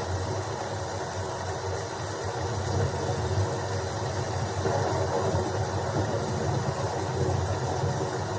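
Steady rain noise with a low rumble underneath, growing slightly louder about three seconds in.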